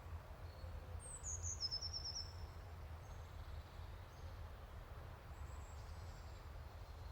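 Faint birdsong over a low outdoor background hum: about a second in, a bird gives one high call that falls in pitch and ends in a quick run of repeated notes, with a few faint high chirps later.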